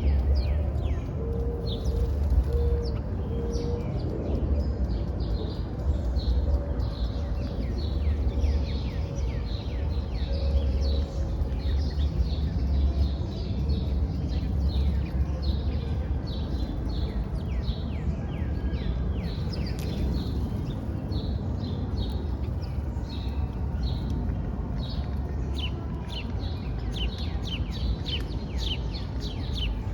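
Small birds chirping, many short quick chirps overlapping, growing denser near the end, over a steady low background rumble.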